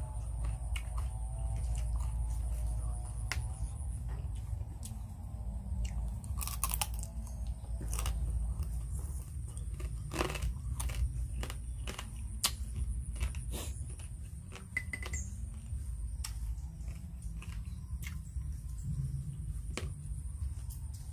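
Close-miked chewing of Khmer crab salad (phleak kdam), with many sharp crunches and clicks spread through the chewing.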